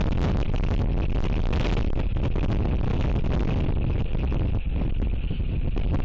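Strong wind buffeting the outdoor nest-camera microphone: a constant deep rumble with irregular gusty flutters and a hissing layer above it.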